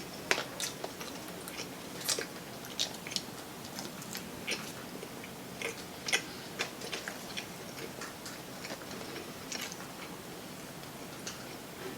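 Chowking Chinese-style fried chicken being bitten and chewed, with irregular sharp crackles from the crisp skin.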